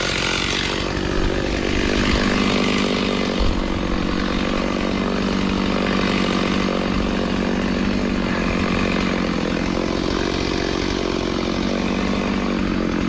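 Chainsaw engine running steadily without a break.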